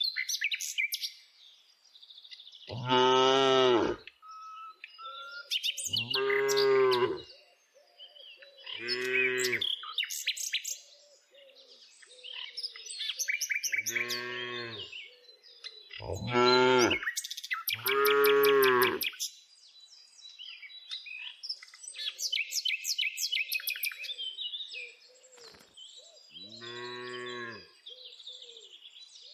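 Cows mooing: about seven separate moos of a second or so each, spread unevenly. Small birds chirp between and over the moos.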